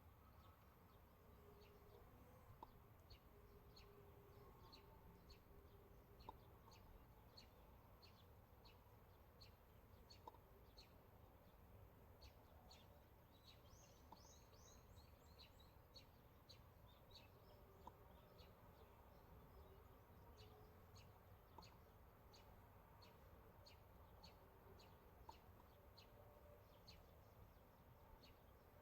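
Faint outdoor ambience: small high chirps repeating about twice a second, with a brief twittering trill about halfway, over a low rumble. A faint click sounds about every four seconds.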